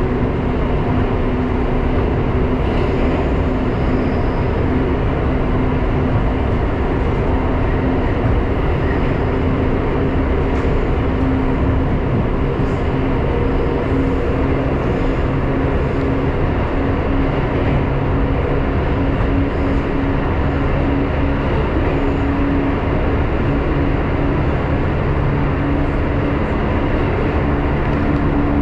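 Inside the carriage of a JR 415-series electric train running through the Kanmon railway tunnel: a loud, steady rumble of wheels on rails, with a low steady hum running through it.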